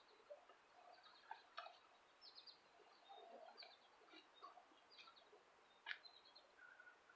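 Faint outdoor quiet with scattered short bird chirps and a single light click about six seconds in.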